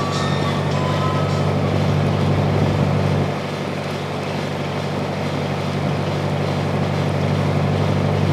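Sightseeing boat's engine running steadily: a low drone over a constant rushing hiss, easing slightly about three seconds in.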